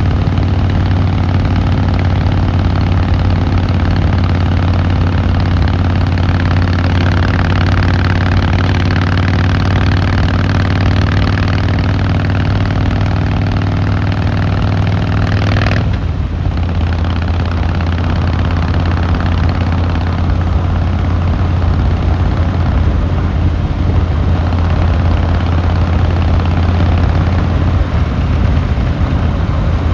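Harley-Davidson Fat Boy Lo's air-cooled V-twin engine and exhaust running at a steady speed. About sixteen seconds in, the note changes abruptly to a slightly lower pitch and stays steady again.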